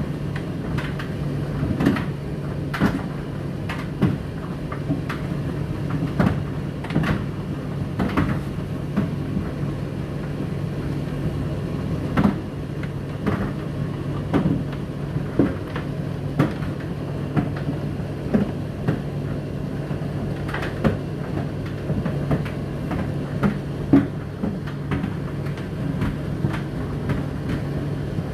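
Indesit IDC8T3 condenser dryer and Whirlpool WFO3P33DLXUK dishwasher running together: a steady motor hum with irregular knocks and clicks scattered throughout.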